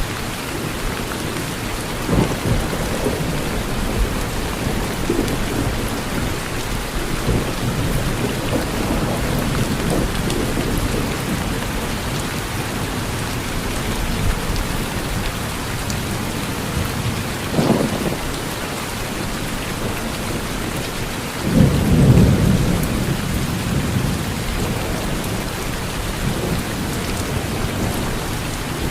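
Steady heavy rain falling, with several low rolls of thunder. The loudest rumble comes about two-thirds of the way through.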